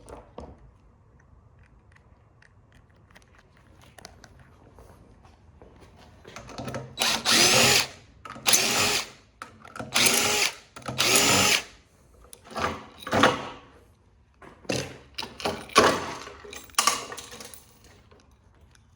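Power drill run in about nine short bursts, each spinning up with a rising whine, as screws are driven out while a machine is taken apart.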